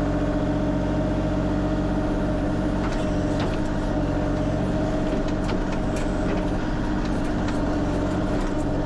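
Kubota KX040 mini excavator's diesel engine running steadily, with a few faint clicks and knocks scattered through it.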